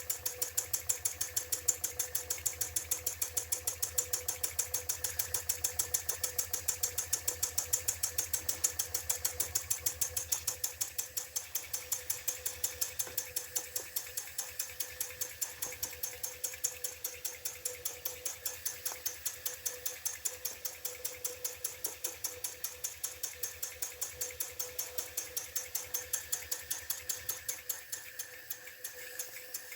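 IND-X electrically heated model steam engine running on steam, its slide valve giving a quick, even train of exhaust chuffs and clicks over a steady faint hum.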